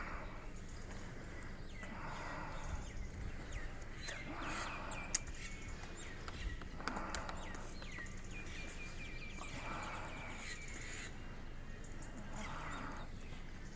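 Birds calling: harsh calls repeating every two to three seconds, with thinner chirps in between.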